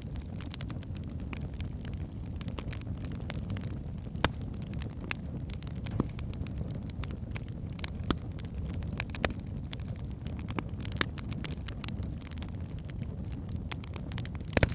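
Log fire burning in a fireplace: a steady low rumble of flames with frequent sharp crackles and pops from the burning wood, a few louder pops standing out.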